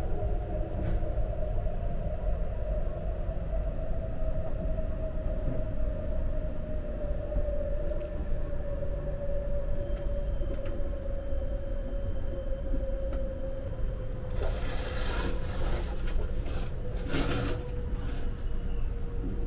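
E7 series Shinkansen running, heard inside the car: a steady low rumble with a faint whine that slowly falls in pitch as the train loses speed. A couple of short hissing bursts come near the end.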